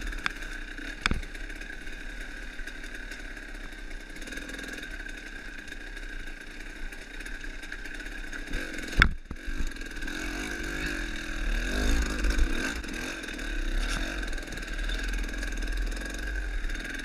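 Dirt bike engine running at low speed on a rough trail, revs rising and falling with the throttle. There is a single sharp knock about nine seconds in.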